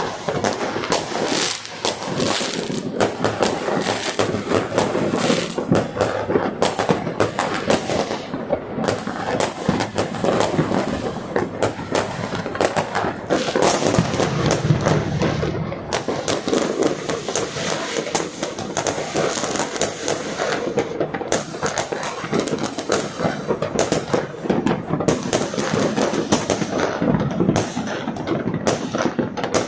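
New Year street fireworks and firecrackers going off in a dense, continuous barrage of overlapping bangs and crackles, with a heavier low rumble about halfway through.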